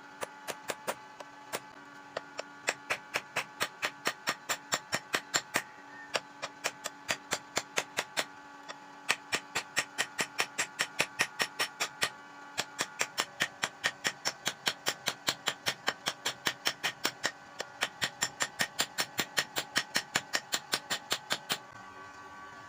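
Hammer striking metal in a fast steady run, about four blows a second, each with a metallic ring; the hammering stops about a second before the end.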